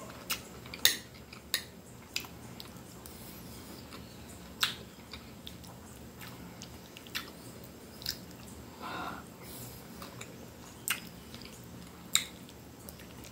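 Chewing and mouth sounds from someone eating a soft shellfish-and-chayote stew. A metal spoon clicks against the plate now and then while she scoops more.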